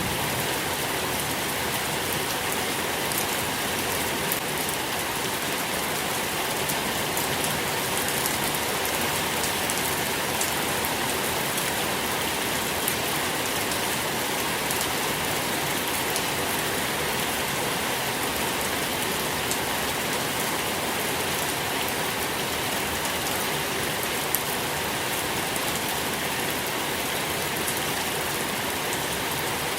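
Steady rain falling, with scattered drop patter, as an even hiss throughout.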